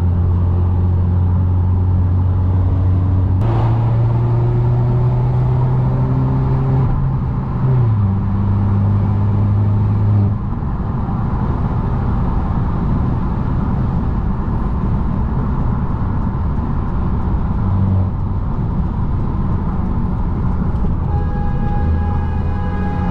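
Engine drone and road noise from inside a turbocharged Mercedes-Benz C250 while it is driven. The engine note steps up a little over three seconds in, drops sharply about eight seconds in, then sinks under steady tyre and road noise about ten seconds in. Near the end a steady sound made of several tones comes in.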